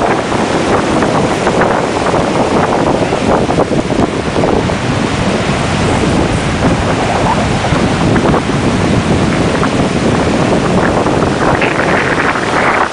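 Hurricane-driven wind buffeting the microphone over heavy surf. The noise is loud and continuous, growing brighter and harsher near the end.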